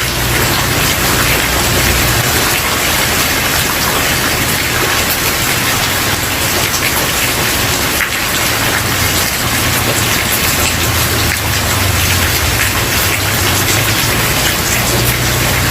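Steady rain falling on a wooden porch: a dense, even hiss of drops, with a low rumble underneath that swells and fades a few times.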